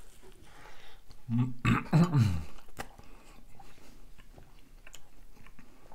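Chewing and biting of pizza with soft wet mouth clicks. About a second and a half in comes a short, low, voiced sound from the eater, falling in pitch.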